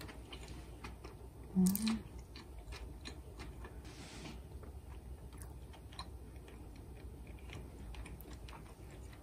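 Someone chewing a bite of fried chicken burger: soft crunching and small mouth clicks. About a second and a half in there is a short, louder hummed sound.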